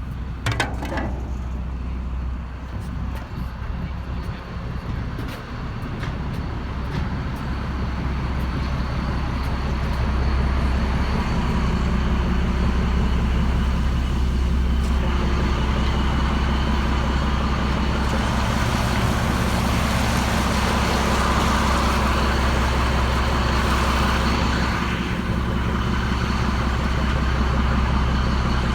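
Diesel engine of a river ferry boat running with a steady drone that grows louder about ten seconds in. Later a rushing hiss swells and fades over it, and there is a sharp click right at the start.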